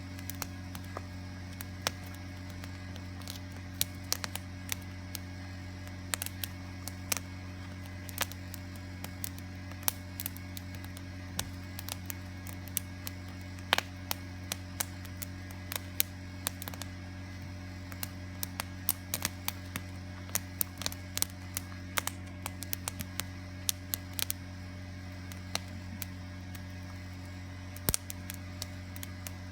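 Small campfire of newspaper and kindling crackling with many short, irregular pops as it catches, over a steady low hum.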